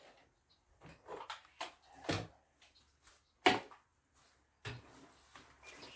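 Knocks and clatters of the wooden parts of a homemade boat dolly, made from an old bunk bed, being handled and fitted: about half a dozen separate knocks, the loudest about three and a half seconds in.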